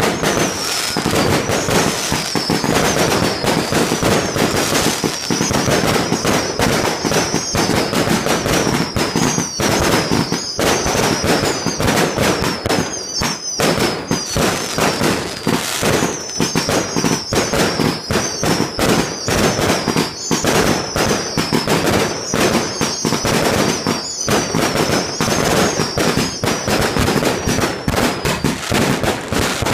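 Fireworks display: a dense, continuous run of bangs and crackles, with high whistles that fall slightly in pitch recurring every second or two over it.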